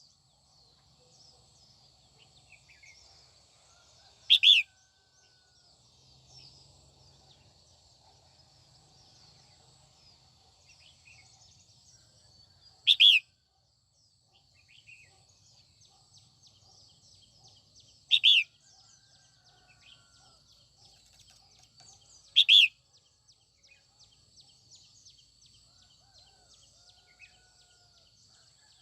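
Female red-whiskered bulbul giving four loud, short, high calls spaced several seconds apart, over faint chirping in the background.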